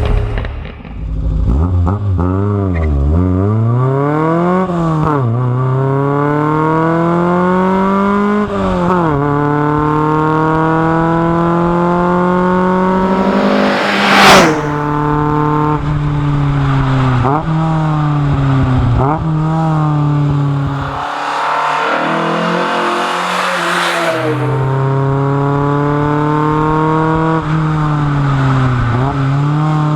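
Fiat 131 Abarth Rally's twin-cam four-cylinder engine accelerating hard through the gears, the pitch climbing and dropping at each shift. There is a brief loud burst of noise about fourteen seconds in, and a few seconds off the throttle a little later.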